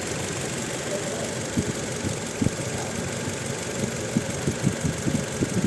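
Toyota Innova's four-cylinder petrol engine idling, with uneven sharp ticks over the steady running from about a second and a half in. The engine is misfiring, a fault the mechanic has traced to the ignition coil on the second cylinder.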